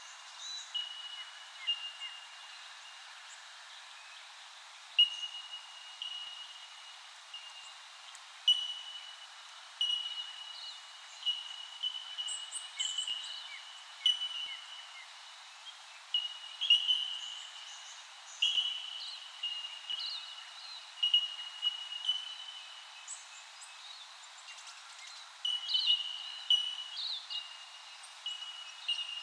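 Wild birds calling: clear whistled notes at much the same pitch repeat every second or so, sometimes overlapping, with scattered higher chirps and twitters among them.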